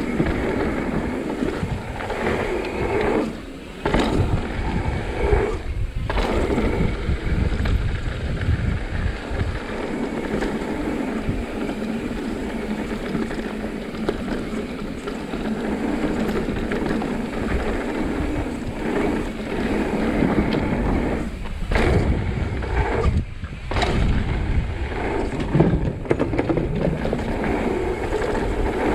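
Steady rush of wind on the microphone mixed with the rolling, rattling noise of riding fast down a rough trail. The noise drops briefly a few times.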